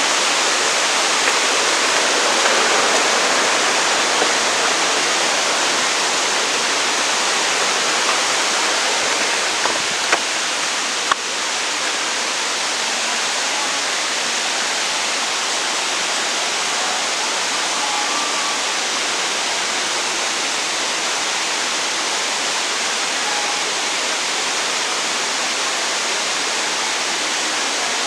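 Waterfall rushing: a steady, dense roar of falling water, with a few small clicks near the middle.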